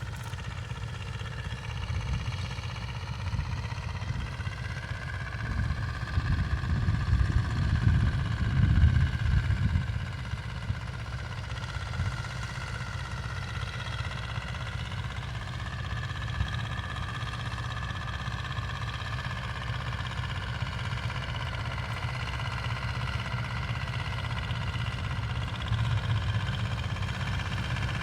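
Vehicle engines running, their pitch slowly rising and falling, with a louder swell about eight seconds in.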